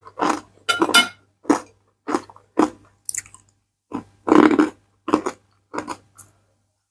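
Close-up chewing and crunching of food in the mouth: about a dozen short, sharp crunches with brief pauses between them.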